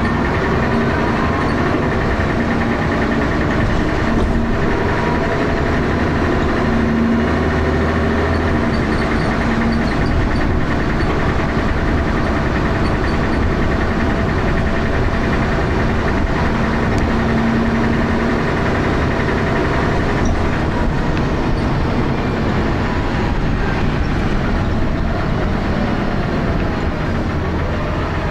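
Dennis Arrow double-deck bus's diesel engine running with a loud knocking noise and lots of thrash.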